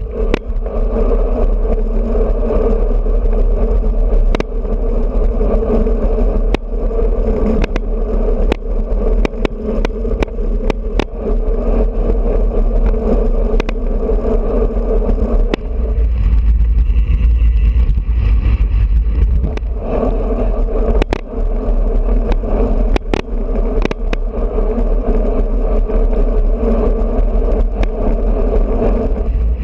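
Wind buffeting a GoPro microphone on a moving road bike, with a steady hum that drops away for a few seconds past the middle, and scattered sharp clicks and knocks.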